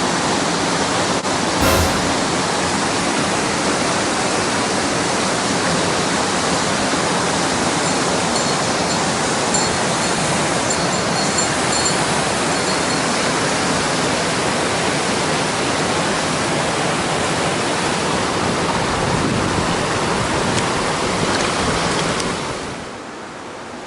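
Mountain stream water rushing steadily, a dense even hiss. A short knock sounds about two seconds in, and the water noise drops suddenly in level near the end.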